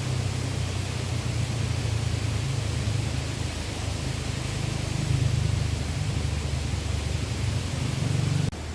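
Steady rushing noise of a flowing river, with a deep rumble under it; it shifts abruptly just before the end.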